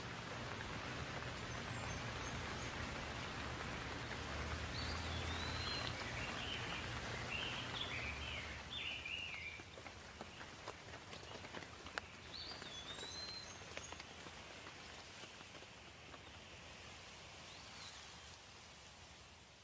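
Steady soft rain hiss with small birds chirping now and then, in a quick run of chirps about a third of the way in and a few single calls later. A low rumble sits underneath.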